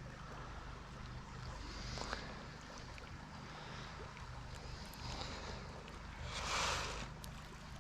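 Faint outdoor background noise, with wind on the microphone, and a brief rush of louder noise about six and a half seconds in.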